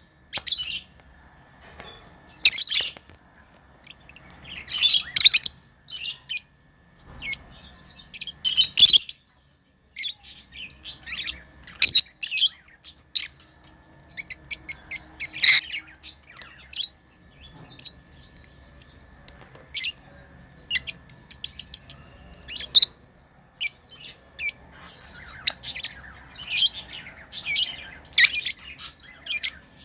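Pet lovebirds chirping: many short, high-pitched chirps and squeaks in quick irregular clusters.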